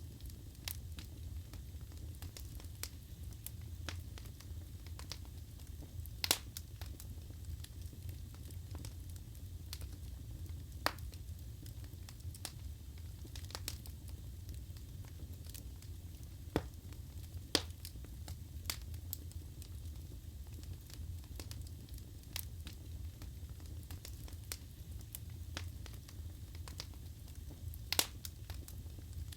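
Wood fire burning in a fireplace: a steady low rumble of flames with scattered sharp crackles and a handful of louder pops from the burning logs.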